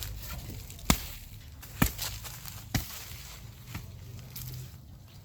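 A digging tool chopping into garden soil four times, about once a second, as weeds are dug out.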